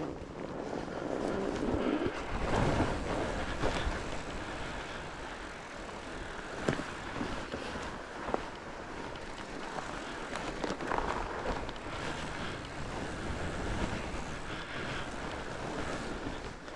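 Fat bike riding down a trail: a steady rush of wind on the microphone and rolling tyres, with a couple of sharp knocks from the bike over bumps in the middle.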